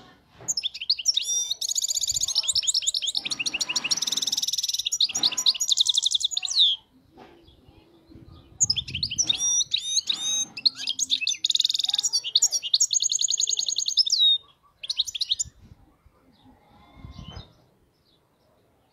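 European goldfinch (caged songbird) singing: two long phrases of rapid twittering and buzzy trills, each about six seconds, then a couple of short snatches near the end. The song is one the keeper rates as free of faults.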